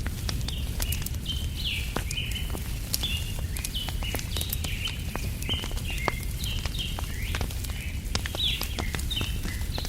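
Wood campfire crackling, with scattered sharp pops and a low steady rumble, under a continuous chatter of small birds chirping several times a second.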